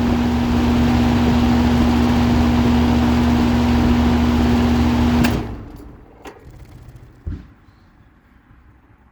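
2005 Lennox Elite air conditioner running with a steady hum and a rush of air, then shutting off abruptly about five seconds in. A faint click and a short thump follow.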